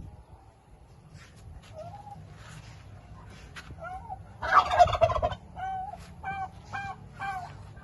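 Turkey gobbling: one loud rattling gobble about halfway through, followed by a quick run of short, pitched calls.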